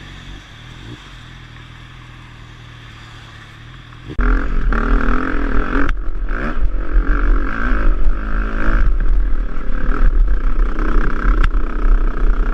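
Motorcycle engine idling steadily, then about four seconds in the sound turns suddenly loud: the engine revving up and down while riding, under heavy wind rumble on the microphone.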